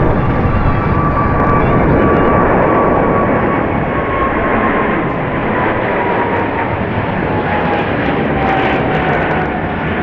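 Jet airliner engines running loud with a high whine that slides slowly down in pitch as the aircraft passes, the noise easing off near the end.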